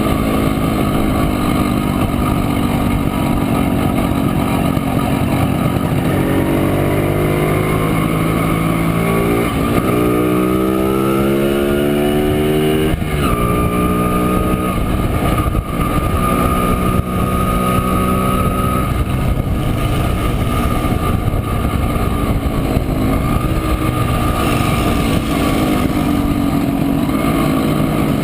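Montesa Impala Comando 175's two-stroke single-cylinder engine running under way. Its pitch climbs for several seconds, drops suddenly about halfway through, then holds fairly steady.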